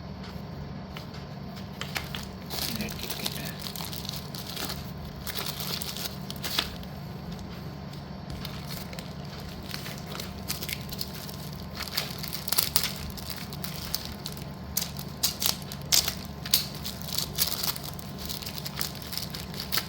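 Slate pencils and their plastic packets being handled during unboxing: irregular crinkling and crackling with sharp clicks, sparse at first and denser and louder in the second half, over a steady low hum.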